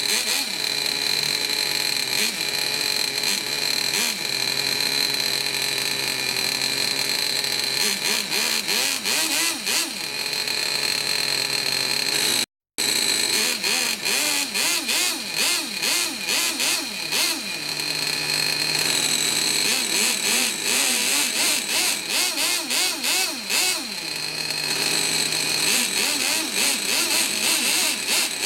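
Twin nitro engines of a radio-controlled T-Maxx truck running: fairly steady at first, then revved up and down with the throttle from about eight seconds in. The engines are freshly rebuilt and still need tuning. The sound cuts out for a split second about twelve seconds in.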